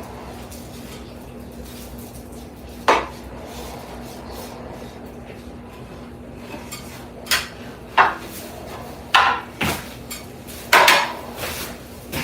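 Hand tools being handled, giving scattered sharp metallic clinks and clatters: one about three seconds in, then a quick run of them in the second half. A faint steady hum runs underneath.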